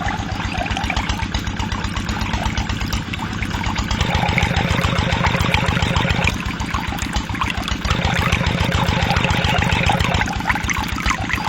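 Small engine running with a steady, rapid chugging, getting louder about four seconds in, with splashing water noise over it.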